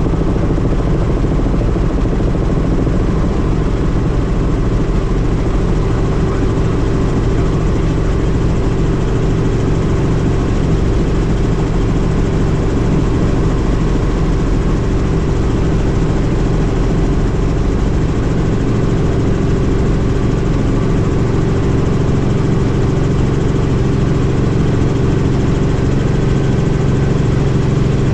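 Helicopter in flight: a loud, steady drone of engine and rotor that does not change.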